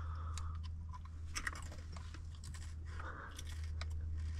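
A person chewing crunchy Fritos corn chips, with several irregular crunches, over a steady low hum.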